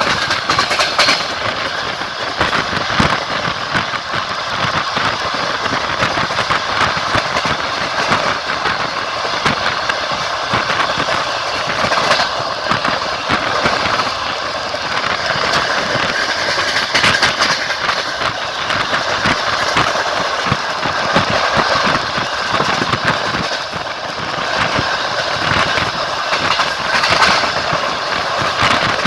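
Passenger train running at speed, heard on board: steady rumble and rolling noise with the clickety-clack of the wheels knocking over rail joints.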